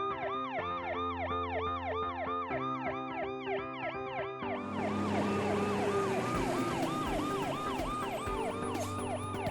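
Cartoon emergency-vehicle siren sound effect wailing in quick rise-and-fall cycles, about three a second, over low steady backing tones. About halfway through a rushing noise joins in, while the siren carries on.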